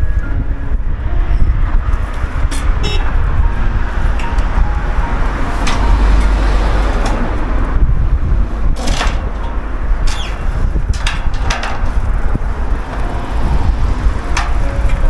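Strong wind buffeting the microphone on an exposed mountain top, a deep, uneven rumble over a rushing hiss, with a few sharp clicks and knocks scattered through it.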